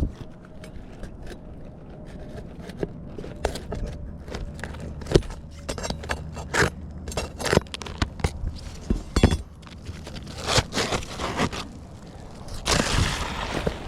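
Irregular clicks, knocks and scraping from hand work, with the knocks coming thick and fast toward the middle and a longer stretch of scraping near the end.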